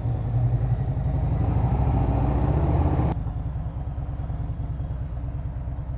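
Harley-Davidson Road Glide V-twin engine with aftermarket pipes running at low road speed, its exhaust pulsing steadily. For the first three seconds a louder rush of road and traffic noise sits over it, then cuts off suddenly, leaving the engine alone.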